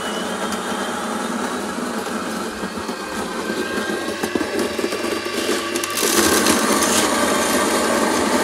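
Built-in coffee grinder of a DeLonghi bean-to-cup espresso machine grinding beans for a dose, a steady grinding noise that gets louder and fuller about six seconds in.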